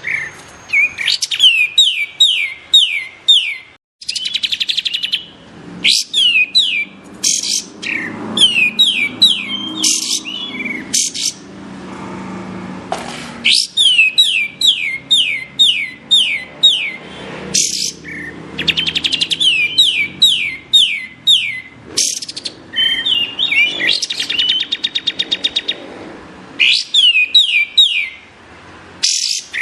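Kapas tembak songbird singing: fast bursts of sharp, high notes, each sliding downward, with short pauses between the phrases and a quick buzzy trill near the end.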